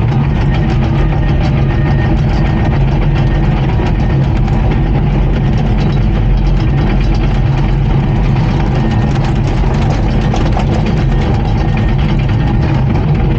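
Diesel engine of a Komatsu D39PX crawler bulldozer running steadily.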